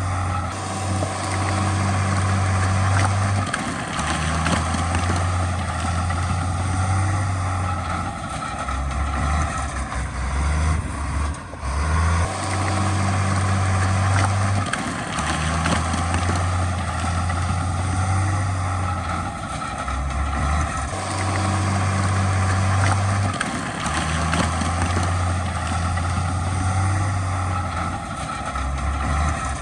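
Heavy diesel earthmoving machinery running steadily under load. The low engine note shifts up and down every few seconds.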